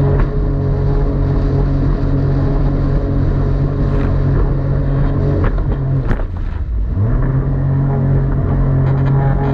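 Personal watercraft (jet ski) engine running at speed, loud and steady; about six seconds in the engine note drops as the throttle eases, then climbs back up about a second later.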